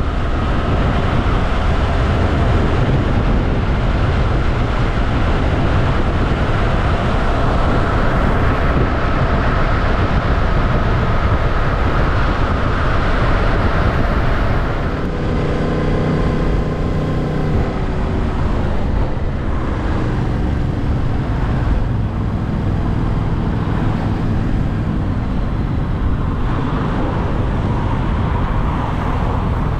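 Yamaha Tracer 700's parallel-twin engine running while riding, under heavy wind rush on the microphone. About halfway through, the engine note shifts and glides in pitch as the revs change.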